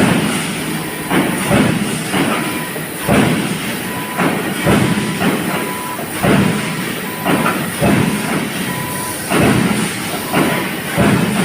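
Grinding machine working, its noise swelling in a loose rhythm about once a second over a steady mechanical hiss.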